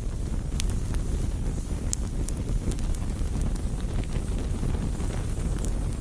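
Campfire burning with a steady low rumble of flame, broken by sharp, irregular crackles and pops from the burning wood.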